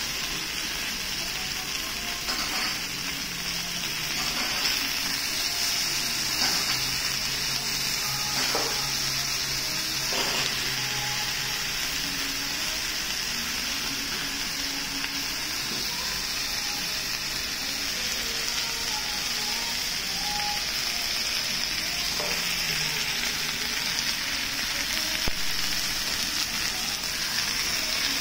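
Sliced lamb and vegetables sizzling steadily on a cast-iron Genghis Khan (jingisukan) grill pan.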